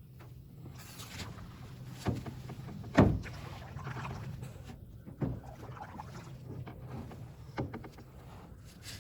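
A canoe being paddled: water swishing, with a few sharp knocks of the paddle against the canoe's hull, the loudest about three seconds in.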